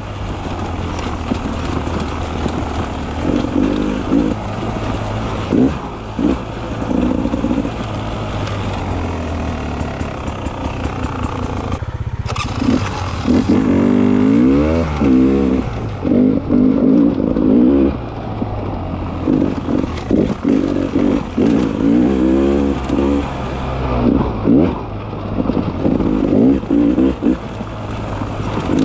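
Beta 300 RR two-stroke enduro motorcycle engine being ridden on trail, the throttle opened and closed over and over so the engine note climbs and falls. The note dips briefly about twelve seconds in.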